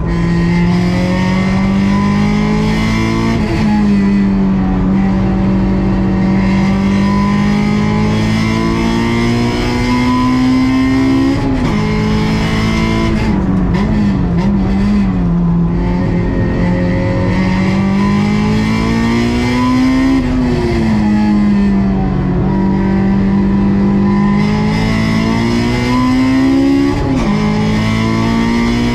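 Honda S2000 AP2's stock 2.2-litre four-cylinder engine running hard under race load. The pitch climbs steadily through the revs and drops sharply at gear changes about four times, with a brief wavering dip near the middle where the throttle comes off.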